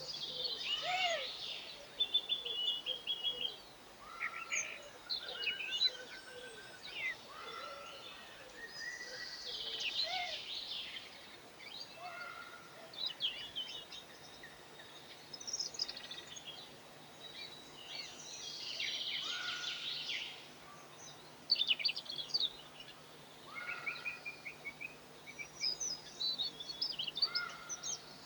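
Several songbirds singing and calling at once: overlapping phrases of varied pitch, some high twittering trills and some lower whistled notes, coming every second or two.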